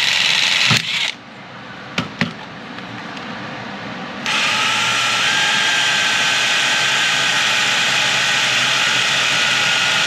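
Power drill boring holes in metal trim: it runs, stops about a second in, a few clicks follow as the bit is repositioned, and it starts again about four seconds in, running steadily with a high whine until the end.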